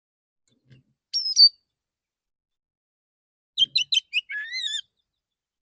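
Male Oriental magpie-robin singing a relaxed song of the kind that calls in other magpie-robins. A short whistled phrase comes about a second in, then after a pause a quick run of sharp notes leads into a warbled phrase.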